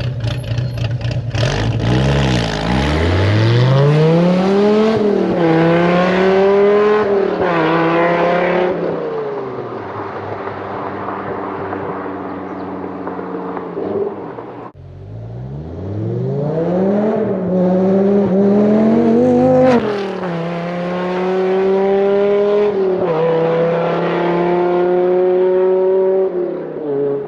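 Dodge Viper GTS 8-litre V10 accelerating hard twice through several upshifts, its pitch climbing, dropping at each gear change and climbing again. It is very loud, running through headers and 4-inch side pipes with no cats and burnt-out mufflers.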